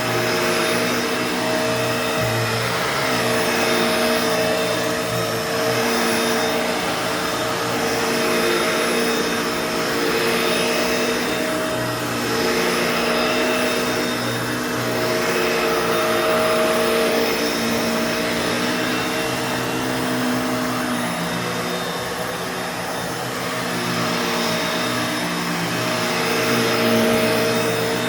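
Bissell Pet Hair Eraser Turbo vacuum cleaner running loud while vacuuming, a steady motor hum and rush of air with an uneven whistling, grinding note that comes and goes, which the owner can't account for.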